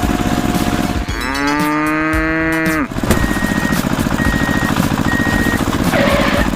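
A cow mooing once, a single call of about two seconds that rises and then holds, over a continuous busy background. Three short high beeps follow the moo.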